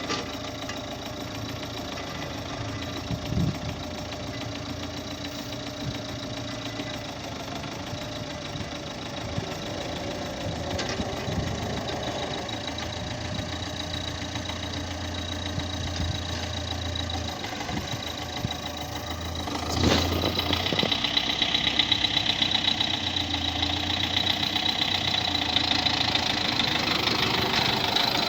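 MTZ-82 tractor's four-cylinder diesel engine running steadily. About twenty seconds in there is a single knock, and the engine then runs louder with more clatter.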